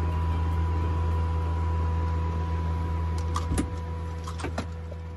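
Steady low drone of an Ecureuil helicopter, with a few sharp clicks about three and a half seconds in; the sound slowly fades near the end.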